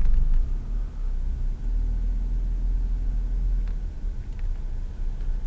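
Low, steady rumble of a car heard from inside its cabin, with a few faint ticks.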